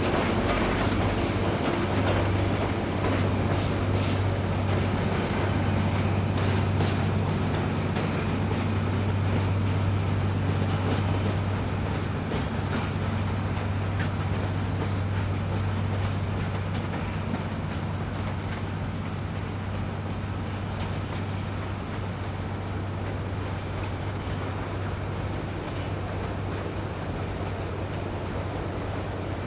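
Train running on the rails: a steady low drone with rail rumble and clatter, a brief high wheel squeal about two seconds in, easing slightly in the second half.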